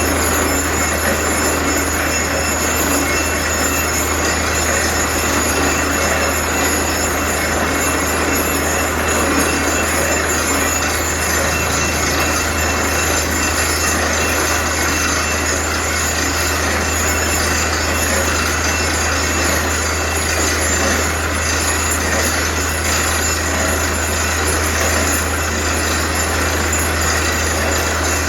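Borewell drilling rig running: a loud, steady mechanical noise with a constant low hum beneath it.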